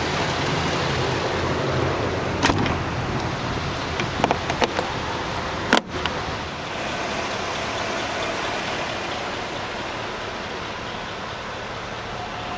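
Hummer H2's 6.2-litre V8 idling steadily, with a few light clicks and one sharp thump a little under six seconds in as the hood is lowered and latched shut.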